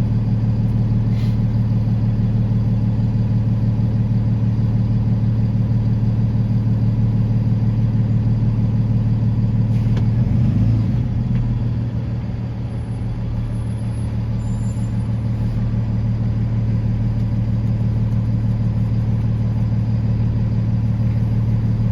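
Steady low drone of a motor vehicle, with a brief change about halfway through and a slight dip in loudness just after.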